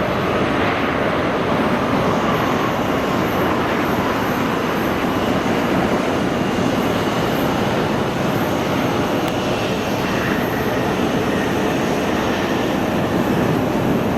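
Airliner jet engines running loud and steady, a broad rush of engine noise with a faint high whine over it.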